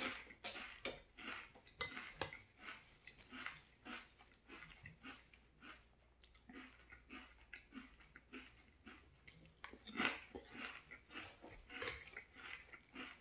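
A person chewing mouthfuls of maple cinnamon Frosted Flakes in milk, close to the microphone: irregular crisp crunches, several a second, loudest at the start and again about ten seconds in.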